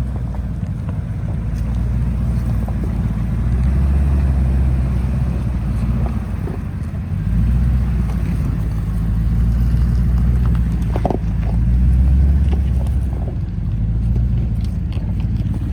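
Full-size pickup truck's gas V8 engine running while driving off-road, its low drone swelling and easing, with a few light knocks partway through.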